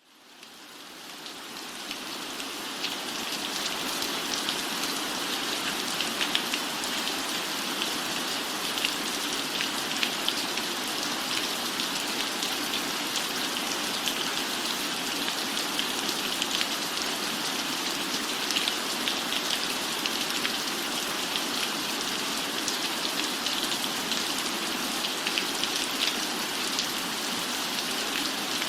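Steady rainfall fading in over the first few seconds, then holding even, with many small sharp ticks of drops through the hiss.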